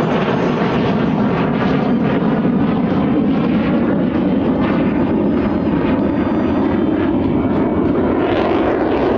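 Loud, continuous jet noise from a single-engine F-16 fighter flying a display pass, its tone shifting slowly.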